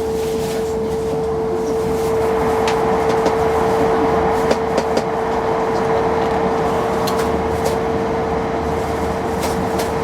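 Hokkaido Shinkansen train running at speed, heard inside the passenger cabin: a steady rushing rumble with a constant hum, and scattered light clicks and knocks.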